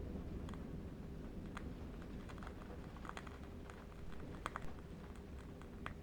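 Irregular faint crackles and pops of a burning candle wick over a steady low rumble of distant wind.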